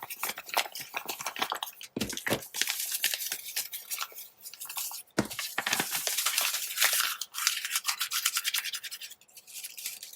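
Pieces of heavier tea-dyed printer paper being crumpled and crinkled by hand, a dense crackling with a few brief pauses, to make the paper look aged.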